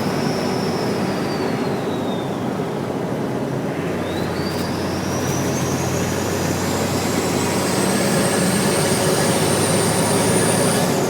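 Turbocharged Nissan Patrol TD42 inline-six diesel running, with a high turbo whistle over the engine. The whistle falls in pitch and fades over the first couple of seconds, then about four seconds in climbs steadily and higher as the engine is brought up on the throttle, dropping away sharply at the end.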